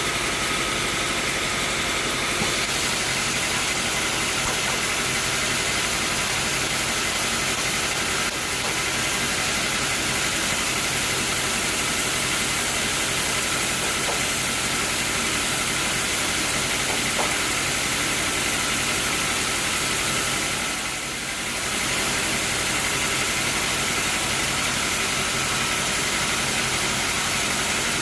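Sawmill machinery running steadily: a motor with a loud, even hiss over it. The level dips briefly about three-quarters of the way through.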